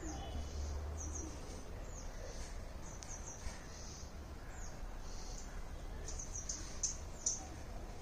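Small birds chirping in a tree: short, high chirps repeated every second or so, over a low steady rumble.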